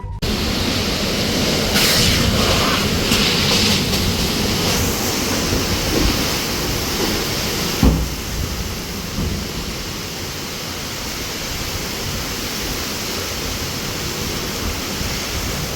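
Heavy rain and strong gusting wind in a storm, a loud steady rush that swells in gusts in the first few seconds, with one thump about eight seconds in.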